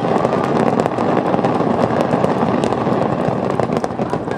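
Fireworks finale: a dense, unbroken barrage of shell bursts and crackling.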